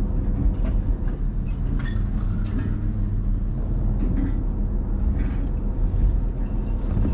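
Vehicle running at low speed, heard from inside the cab: a steady low engine hum with scattered rattles and knocks as it rolls over rough, muddy ground.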